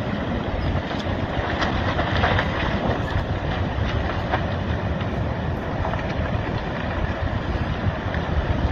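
Landslide of earth and debris sliding into the sea: a steady rumbling roar with a few faint cracks, and wind noise on the microphone.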